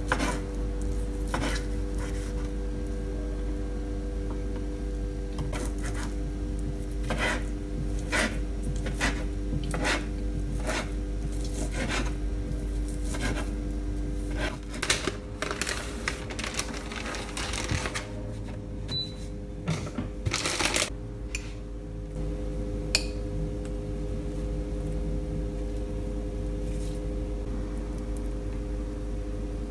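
Kitchen work: a run of sharp knocks, about one to two a second, then a few scattered clatters of dishes and utensils, over a steady mechanical hum.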